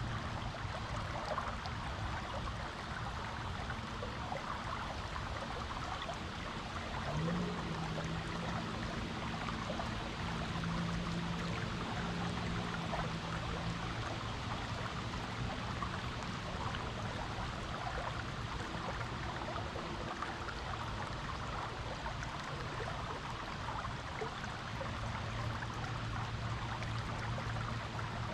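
Stream water flowing steadily, a continuous rushing splash. A faint low hum comes and goes underneath, most noticeable from about seven to fourteen seconds in and again near the end.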